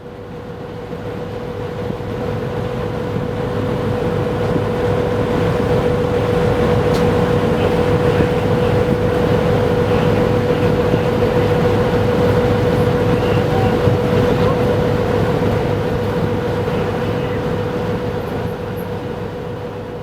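A passing train: a continuous rumble with a steady hum, growing louder to a peak near the middle and fading away toward the end.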